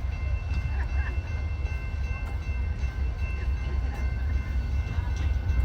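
Steady low rumble of an approaching Amtrak train, with faint steady high tones above it.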